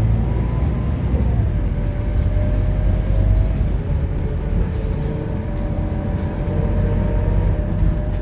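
Scania K230UB city bus on the move, its diesel engine running under load with a deep, steady rumble and a whine that slides slowly in pitch.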